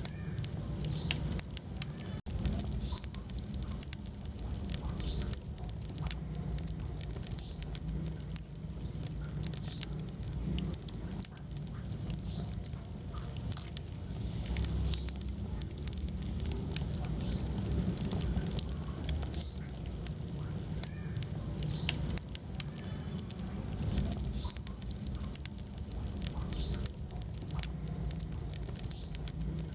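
Wood fire in a fireplace, burning steadily with a constant low rumble of flame and many irregular sharp crackles and pops. A momentary gap in the sound about two seconds in.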